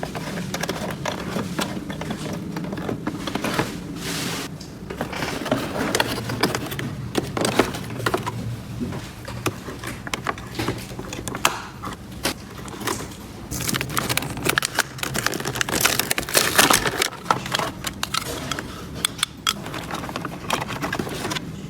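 Small plastic toy pieces being handled: an irregular run of light clicks, taps and scrapes, with busier rustling patches now and then, over a faint steady low hum.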